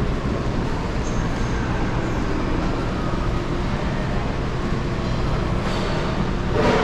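Steady indoor din of a shopping mall: a low rumble under an even wash of background noise, swelling briefly louder near the end.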